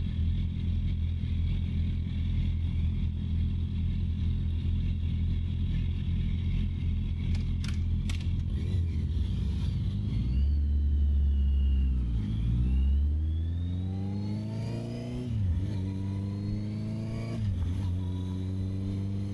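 Honda CB650R's inline-four engine under way: a steady engine note for the first half, the pitch dropping as it slows about ten seconds in, then rising again as it accelerates, with two brief dips in pitch as it shifts up. Wind noise rushes over the camera microphone.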